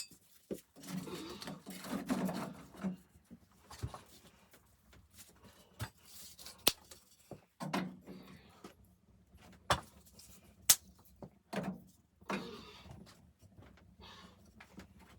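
Objects being handled in a small room: irregular sharp clicks and knocks with short rustling and scraping sounds between them.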